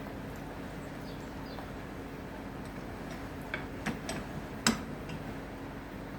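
A few short, sharp clicks and knocks of wood and tools being handled on a workbench, over a steady low hum. They come in the second half, with the loudest knock about three-quarters of the way through.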